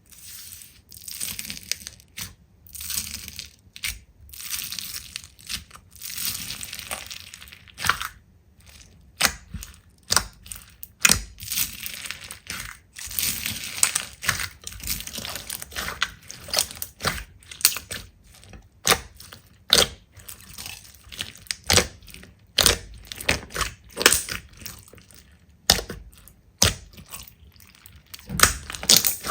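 Slime being squeezed and pressed by hand, giving many sharp crackling clicks and pops at uneven spacing, with stretches of wet, hissy crackle between them.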